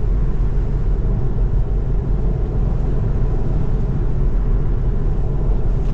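Steady road noise of a Tesla driving on a wet road: a continuous low rumble with tyre hiss.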